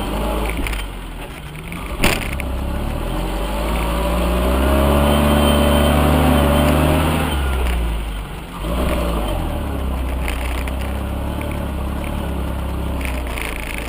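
UAZ off-roader's engine revving up hard in mud, its pitch climbing for a couple of seconds and then dropping back, before running on more steadily. A single sharp knock comes about two seconds in.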